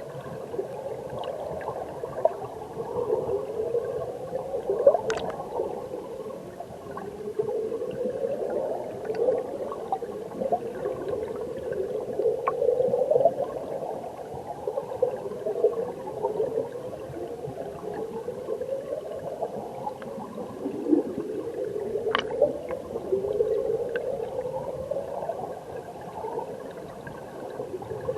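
Mountain stream water heard underwater: a steady gurgling rush of current and bubbles, with repeated rising sweeps in pitch and a few sharp clicks, at about 5, 12 and 22 seconds in.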